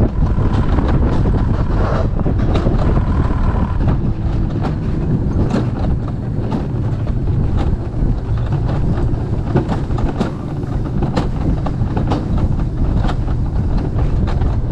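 Alpine coaster sled running fast down its steel rail track: a steady rumble with wind on the microphone and frequent irregular clicks and clacks from the wheels on the rail.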